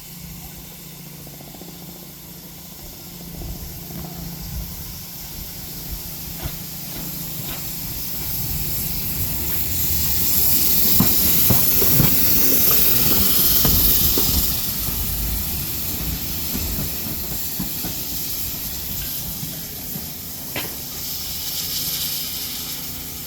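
Steam locomotive moving slowly past, its steam hissing with a low rumble underneath, growing louder to a peak about halfway through and then easing off. A few sharp clicks come and go along the way.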